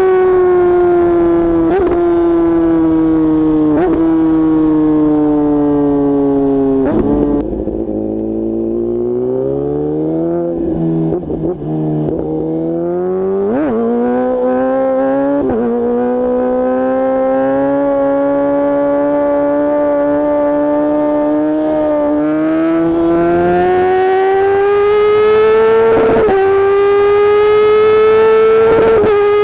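Kawasaki ZX-10R inline-four running through a straight-piped Akrapovic exhaust with no catalytic converter, heard from the back of the bike. The engine note falls slowly for about seven seconds, breaks several times between roughly 7 and 16 seconds as gears change and the revs jump, then climbs steadily to near the end with a couple more steps up.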